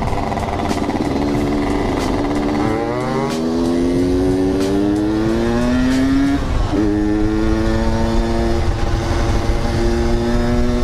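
Yamaha RX-King two-stroke single-cylinder motorcycle engine under way, pulling up through the revs for a few seconds. It drops sharply in pitch on a gear change about two-thirds of the way in, then holds steady revs.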